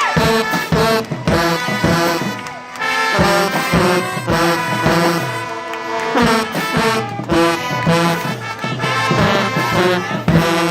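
High school band playing, brass instruments carrying the tune over regular drum hits; the music stops at the very end.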